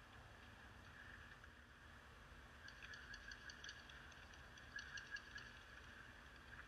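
Near silence: a faint steady hiss with two brief clusters of soft ticks, about three and about five seconds in.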